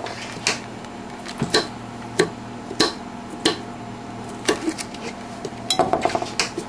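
Kitchen utensils tapping and clinking against dishes: an irregular series of sharp taps, roughly one every half second to second, with a quick flurry near the end, over a steady low hum.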